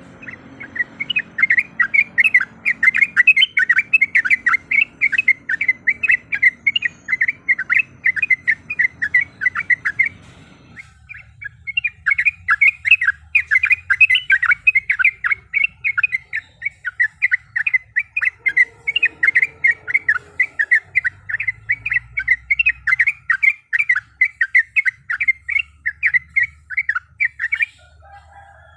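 Yellow-vented bulbul (trucuk) singing a long, fast rolling series of chattering notes in two long bouts, with a short break about ten seconds in.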